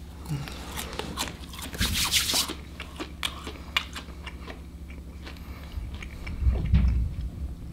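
Close-up crunching and chewing of a mouthful of dried, salt-and-vinegar-flavoured crickets, in many short crisp crunches that are densest about two seconds in. A loud low bump comes near the end.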